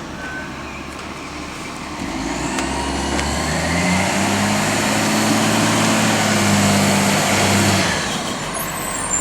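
Rubbish truck's engine running up to a higher pitch and holding there with a thin high whine, then dropping back about eight seconds in.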